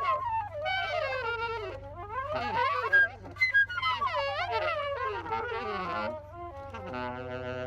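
Improvised music on wind instruments: melodic lines that slide and bend up and down in pitch, settling on one held note near the end, over a faint low steady hum.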